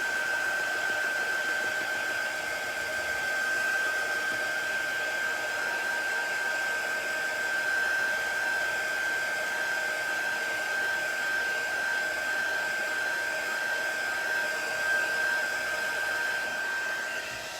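Handheld hair dryer blowing steadily with a high whining tone, drying freshly applied chalk paste. It switches off just before the end.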